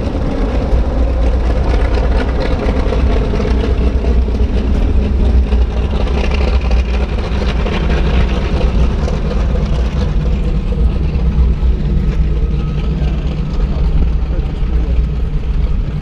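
Four Wright R-3350 radial piston engines of a Lockheed L-1049 Super Constellation running together with their propellers, a loud, steady deep drone that holds an even pitch.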